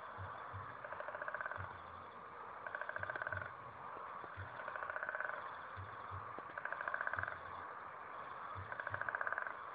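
Night chorus of frogs in a wetland: a dense, steady background of calling frogs, with a louder rapid trill repeating about every two seconds, five times, each lasting about half a second. Soft low knocks, often in pairs, sound between the trills.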